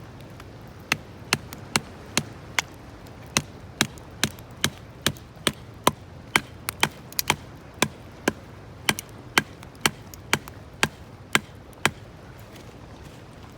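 A run of sharp knocks, about two a second and some two dozen in all, starting about a second in and stopping near the end, over a steady background hiss.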